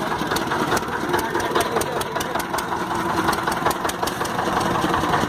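Small fishing boat's engine running steadily, with a regular knocking beat.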